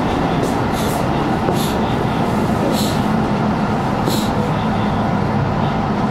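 Electric train moving slowly, its steady running noise heard from inside the driver's cab, with several brief high hisses.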